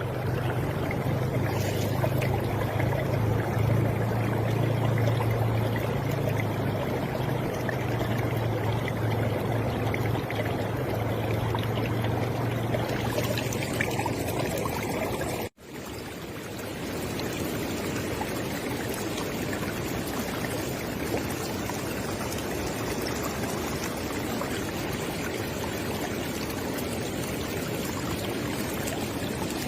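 River water flowing and splashing steadily, with a low rumble under it in the first half. About halfway through the sound cuts out for a moment and resumes, an edit in the recording.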